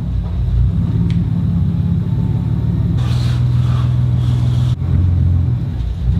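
Nissan Skyline's RB30 straight-six engine running at low revs while the car is moved slowly back and forth, a steady low rumble with slight changes in pitch.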